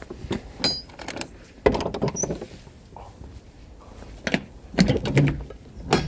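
Irregular knocks, clunks and rattles of hard objects being handled and set down, with a couple of short high squeaks.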